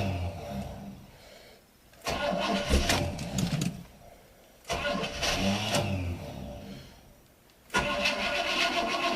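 1979 Chevrolet Caprice V8 being cranked over on its starter in repeated tries, each lasting a second or two with short pauses between, on a cold start after sitting for years. The engine does not stay running.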